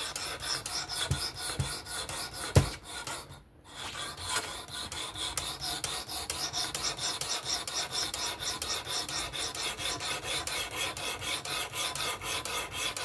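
Sharpening stone on a Work Sharp Precision Adjust Pro fixed-angle sharpener rasping back and forth along a folding knife's blade in quick, even strokes; this is the first stone, setting the initial bevel. A sharp knock comes between two and three seconds in, and the strokes stop briefly just after it.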